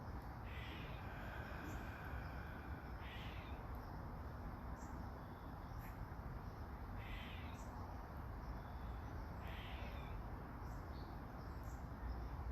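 A bird calling four times, short calls a few seconds apart, over a steady hiss of light rain.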